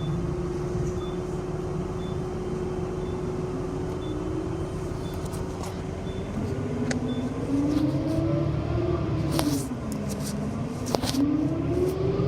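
Inside a city bus: the engine runs steadily with a constant low drone, then about halfway through a whine rises and falls in pitch as the bus gets moving and changes speed. A few sharp rattles or knocks come near the end, and faint regular ticks sound about once a second early on.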